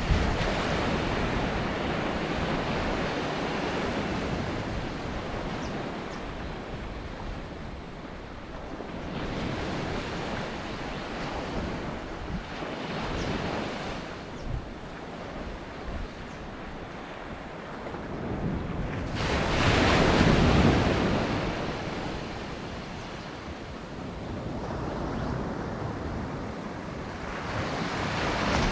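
Ocean surf breaking and washing onto a beach, a steady rush that swells and fades several times, loudest about twenty seconds in, with wind buffeting the microphone.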